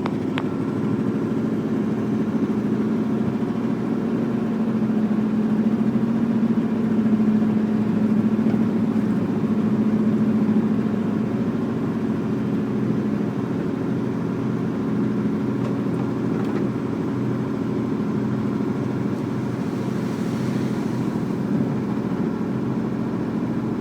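1984 GMC 7000's 366 gasoline V8 running steadily under load, driving the PTO hydraulic pump while the twin-cylinder dump bed raises.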